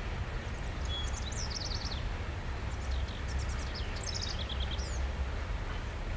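Long freight train rolling past uphill with a steady low rumble. Over it, a songbird sings two short phrases of quick descending trills, one about half a second in and one about three seconds in.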